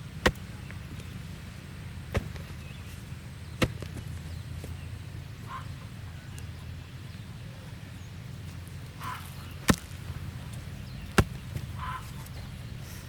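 Five sharp chopping strikes at uneven intervals, over a steady low hum, with a few short faint chirping calls between the later strikes.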